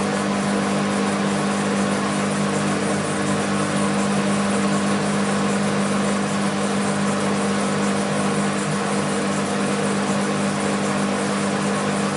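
BEKO WMB 51441 washing machine running steadily with a constant motor hum over a hiss.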